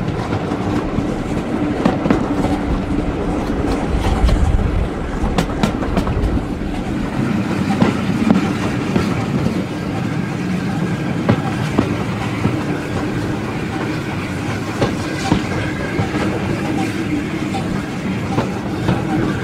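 Vintage railway carriage running on jointed track, its wheels clicking over rail joints and points above a steady rolling rumble. The deep rumble drops off about seven seconds in.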